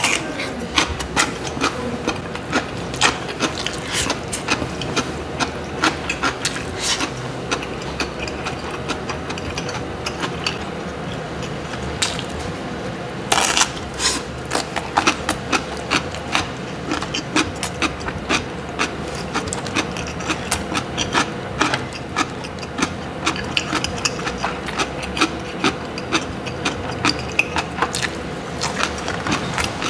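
Close-miked eating: dense, sharp crunches and wet chewing of kimchi and rice, over steady background noise, with a louder noisy burst about halfway through.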